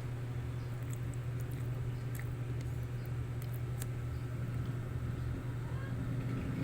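A steady low mechanical hum, with a few faint ticks now and then.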